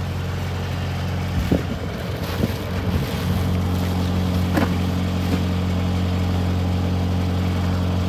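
A car engine idling steadily close by, with a few light knocks and handling sounds.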